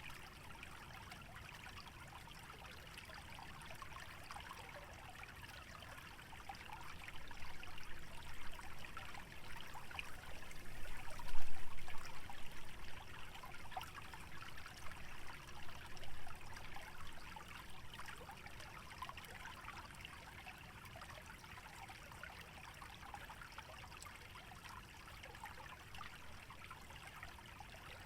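Small wetland stream trickling steadily over shallow water. A louder swell rises about six seconds in and peaks sharply around eleven seconds, then settles back by seventeen seconds.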